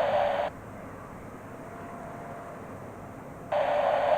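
Air traffic control radio static: a burst of band-limited hiss from a keyed transmission with no voice stops about half a second in, and a second burst starts near the end, with faint steady radio background noise between them.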